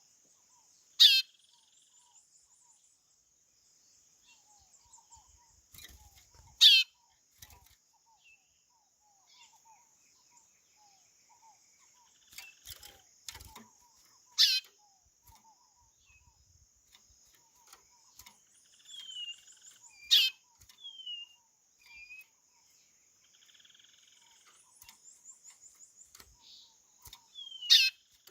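Chorão (white-bellied seedeater) calling: five loud, sharp whistled notes, each sweeping steeply down, spaced several seconds apart, with softer short falling whistles between them over a steady faint high buzz.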